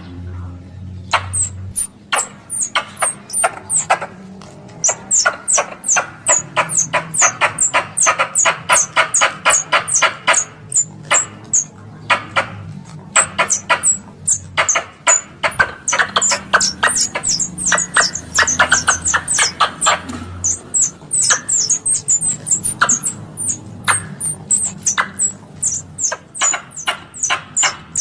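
Squirrel lure call: a long, rapid series of sharp chattering chips, several a second, each with a short high falling squeak, played to call in plantain squirrels. A low hum sits under the first two seconds.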